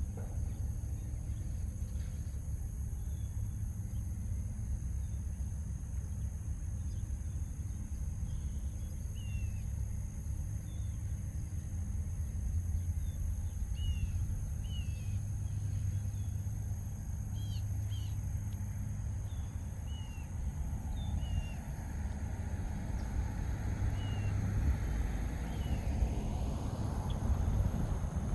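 Roadside outdoor ambience: a steady low rumble with scattered short, high bird chirps. A vehicle passes in the last several seconds, swelling and then easing off.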